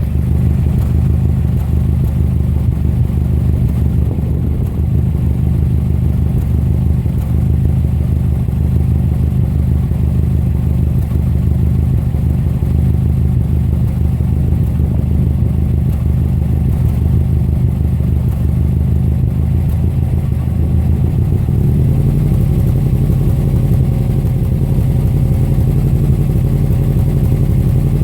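Subaru EJ255 turbocharged 2.5-litre flat-four engine idling unevenly with a misfire. About three quarters of the way through, its note rises slightly and grows fuller.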